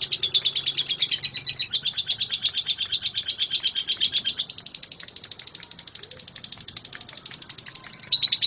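Fischer's lovebird singing: a fast, unbroken stream of high chirps, softer in the second half, with a brief louder flurry just before it stops at the end.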